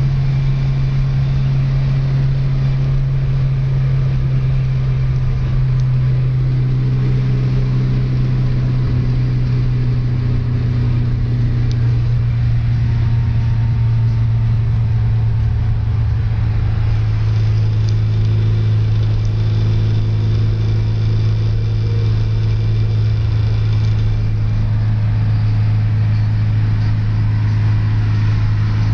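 Wittkuhn-built 2-litre VW Type 4 air-cooled flat-four in a Beetle, heard from inside the cabin, droning steadily at autobahn cruising speed while the new engine is run in. Its pitch settles slightly lower about five seconds in, over a bed of tyre and wind noise.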